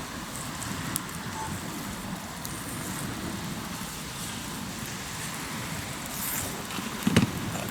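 Wood campfire crackling with a few sharp pops over a steady rush of waves on the shore. A single loud knock comes near the end.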